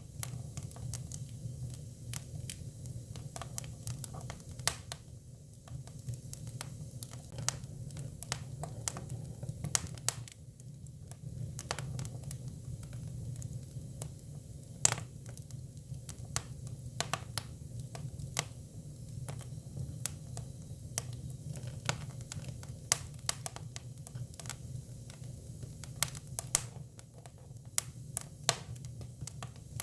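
Hinoki cypress firewood burning, with irregular sharp crackles and pops over a steady low hum. A few pops stand out louder.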